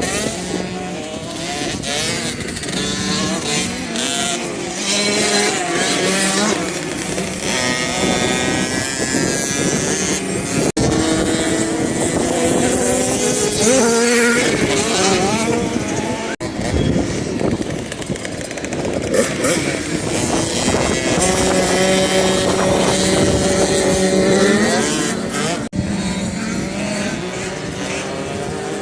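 Motocross bike engines revving up and down as they ride, with more than one bike heard at once at times. The sound breaks off abruptly three times.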